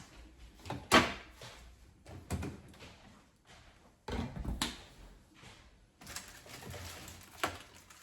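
Items being taken out of a refrigerator: a series of knocks and clunks of containers, shelves and drawers being handled, the loudest about a second in.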